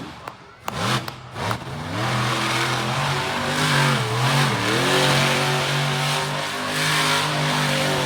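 Monster truck engine revving and held at high revs for several seconds, with two brief dips in pitch in the middle. A few short, sharp sounds come just before it in the first second or so.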